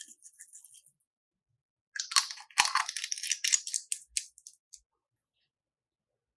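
Crunchy crackling as slime is squeezed and worked by hand, a dense run of sharp clicks lasting about three seconds, starting after a short pause.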